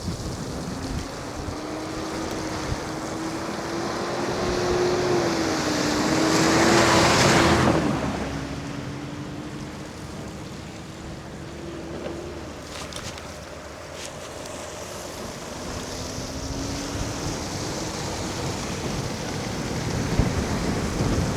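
Wind rushing over the microphone of an electric scooter ridden fast, with a thin whine from its hub motor rising in pitch several times. The rush swells to its loudest about six to eight seconds in, then eases.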